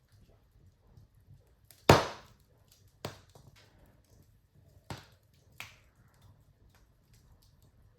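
Wood fire in a fireplace crackling, with scattered sharp pops from the burning logs; one loud pop about two seconds in, and smaller ones near the middle.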